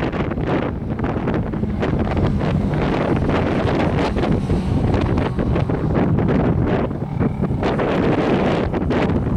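Heavy wind rushing over the microphone of a camera riding on a motorcycle at speed, with the motorcycle's engine running underneath.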